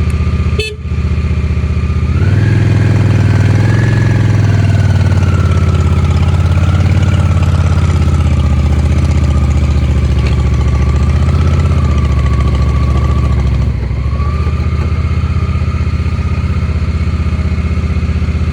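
Motorcycle engine running while riding. A brief drop under a second in, then the engine gets louder from about two seconds with its pitch rising a little as it pulls, and near fourteen seconds it falls back to a quieter steady run as the throttle eases off.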